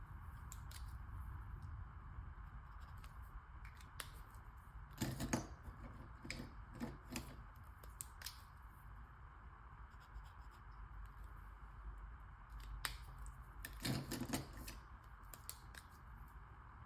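Marker scratching and rubbing on paper in short strokes while colouring in, with scattered light clicks and taps over a steady faint hiss.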